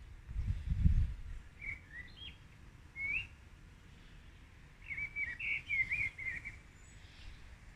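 A small songbird chirping in short whistled phrases: a few separate notes, then a quicker run of chirps a little past the middle. A brief low rumble in the first second is the loudest thing.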